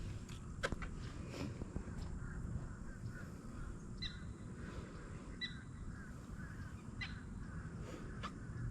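A crow cawing, three short calls about a second and a half apart.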